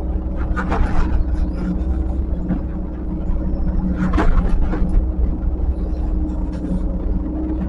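Diesel engine of a heavy earthmoving machine running steadily with a low hum, with brief louder noises from the machine about a second in and about four seconds in.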